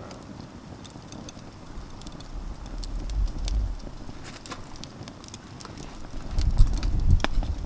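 Campfire crackling, with scattered small pops and snaps from the burning wood. A low rumble swells up about halfway through and again near the end, louder than the crackle.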